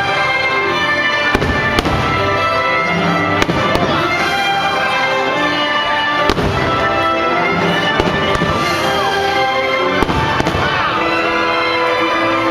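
Fireworks show: about half a dozen sharp firework bangs scattered over continuous show music playing from loudspeakers.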